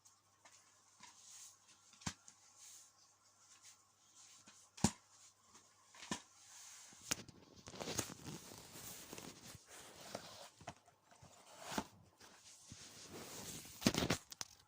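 DVD box set being handled: scattered sharp plastic clicks, the loudest about five seconds in, then a stretch of rustling handling noise with more clicks from about halfway.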